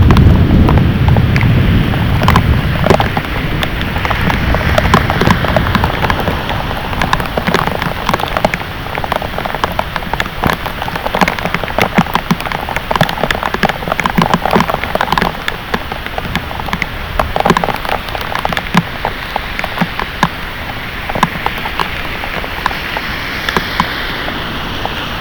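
Heavy thunderstorm rain beating down, with many close, sharp drop hits on hard surfaces over a steady wash of rain. A low thunder rumble is heard in the first few seconds and fades away.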